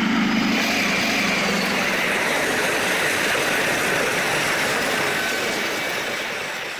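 A diesel locomotive passes at speed hauling a train of intercity coaches: an engine drone at first, then the steady rushing noise of the coaches running over the rails, fading away near the end.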